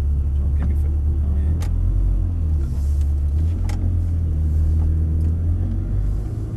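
Ferrari 360's V8 engine running at low revs, heard from inside the cabin as the car creeps away in first gear, with a few sharp clicks over the steady rumble.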